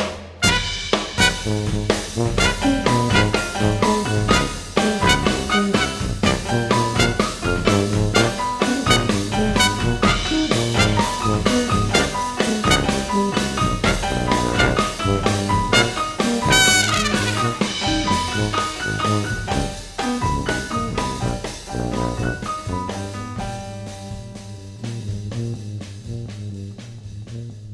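Jazz from a small brass band, with trumpets, baritone saxophone and tuba over keyboards and a drum kit. A quick downward run of notes comes about two-thirds of the way through, and the music gets quieter toward the end.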